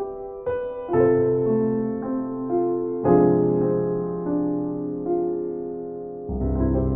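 Slow, gentle solo piano music: single notes and sustained chords struck about a second in, three seconds in and again near the end, each left to ring and fade.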